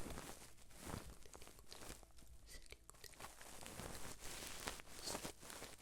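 Close-up ASMR trigger sounds: soft, irregular crunching and crinkling handled right at the microphone, a scatter of small clicks and rustles with no steady rhythm.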